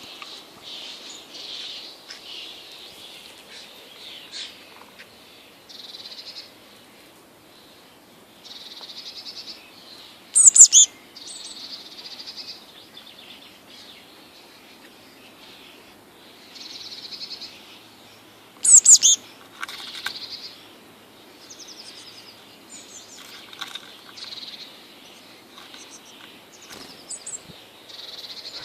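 Small birds chirping and calling again and again in short high notes, with two much louder, sharp calls, one about ten seconds in and one about nineteen seconds in.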